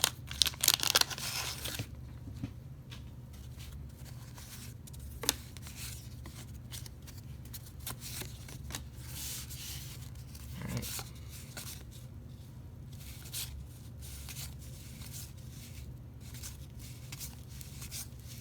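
A baseball card pack's wax wrapper tearing and crinkling open for about the first two seconds, then soft scattered rustles and clicks of the cards being handled and flipped through, with one sharper click about five seconds in, over a steady low hum.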